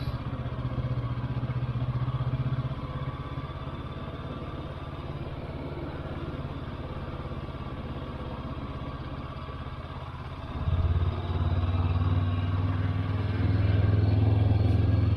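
Motorcycle engine running while riding: quieter for several seconds from about three seconds in, louder again from about ten and a half seconds, and louder still near the end.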